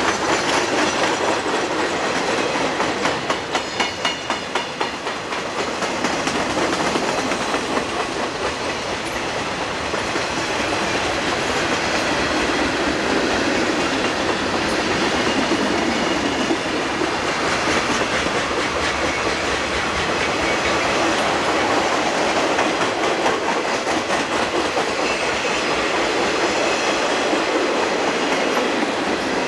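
A freight train's cars rolling past close by, their steel wheels running steadily on the rails, with a run of regular wheel clicks, about four a second, a few seconds in.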